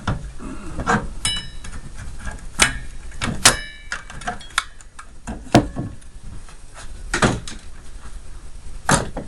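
Irregular knocks and clatter of plastic and metal parts being handled and pulled apart during disassembly of an electronic mini fridge, with two short metallic rings, a little over a second in and about three and a half seconds in.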